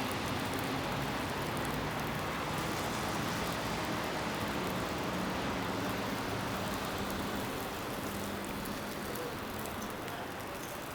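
Steady city-street ambience: an even hiss of traffic noise with a low vehicle engine hum that fades out about eight seconds in.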